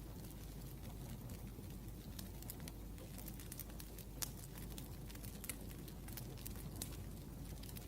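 Wood fire crackling: irregular sharp snaps and pops over a low, steady rumble, with one louder pop about four seconds in.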